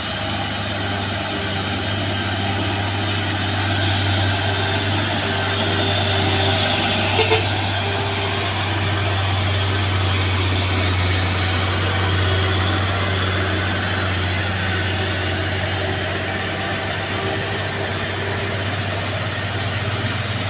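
Heavy diesel truck engines running steadily with a low drone and road noise, swelling a little and easing off again. A brief double tone sounds about seven seconds in.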